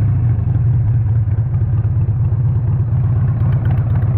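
Harley-Davidson Sportster 883's air-cooled V-twin engine running steadily at an even speed, a loud low pulsing exhaust note with no revving.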